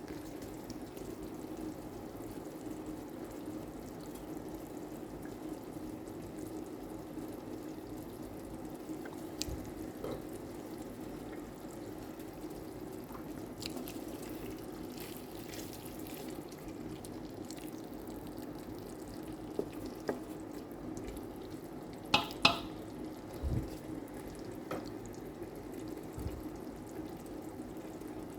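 Chicken masala cooking in a pot, a steady low bubbling and sizzling, with a few sharp knocks about three-quarters of the way through.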